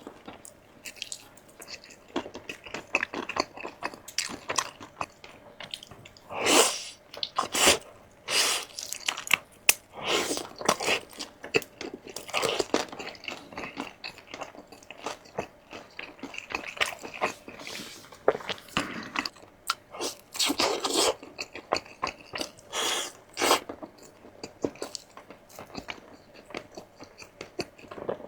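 Close-miked eating: a person biting into and chewing crunchy food, with a steady run of crunches and crackles and several louder, longer bites spread through.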